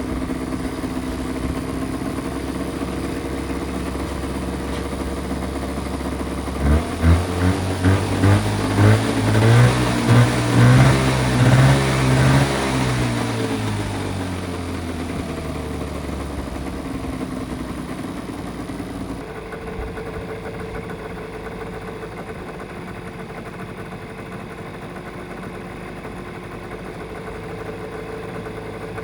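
Mitsubishi Minica 360 GSS's small two-stroke twin-carburettor engine idling steadily. About a quarter of the way in it is blipped about ten times in quick succession, then it settles back to a steady idle.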